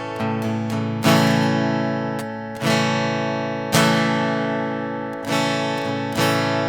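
Acoustic guitar strumming the intro of a country song, one chord struck about every second or so and left to ring before the next.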